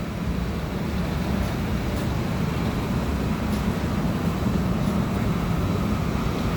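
Steady, even low machinery rumble, with no breaks or changes.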